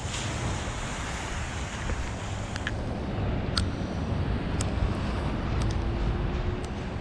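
City street ambience: a steady low rumble of traffic and wind on the microphone, with a few scattered light clicks.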